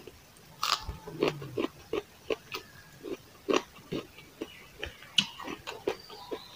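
Close-miked chewing with wet smacking of the lips and mouth, in an even rhythm of about three chews a second, on a mouthful of rice and raw red onion.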